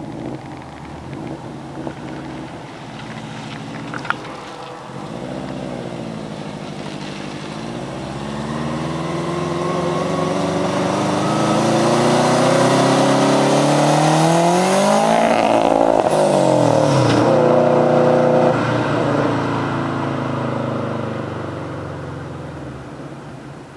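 Subaru STI's turbocharged flat-four exhaust: two short rev blips, then the engine pulls with rising pitch and growing loudness. About 16 s in the pitch swings up and then drops sharply, and the sound fades away over the last few seconds.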